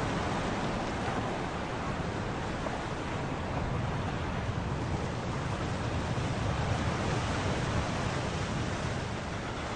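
Steady sea and wind noise: a continuous wash of surf with wind, with no distinct calls or impacts.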